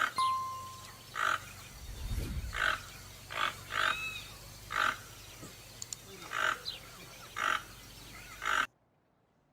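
Toucans calling: a series of short, evenly paced calls, about one a second, with a brief thin whistle from another bird near the start. The sound cuts off abruptly near the end.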